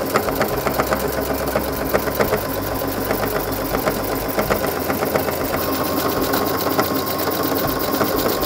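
Brother NQ470L computerized sewing machine running steadily, sewing denim with a twin needle: a rapid, even clatter of needle strokes throughout.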